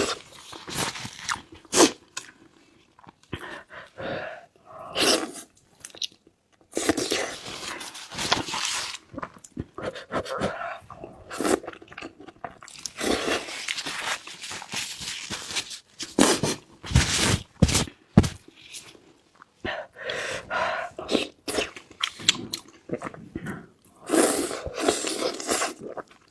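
A person chewing and biting food close to the microphone: irregular bursts of wet, crunchy mouth sounds, some short and some drawn out over a second or two.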